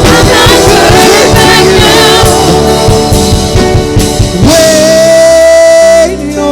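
Live gospel worship music: a band with drums and guitar under a singing voice. About four and a half seconds in, the drums stop and one long high note is held for about a second and a half before the music drops away.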